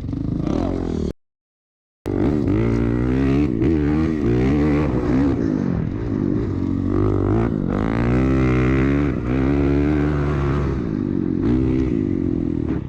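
Off-road vehicle engine revving up and down hard. The sound cuts out completely for about a second near the start.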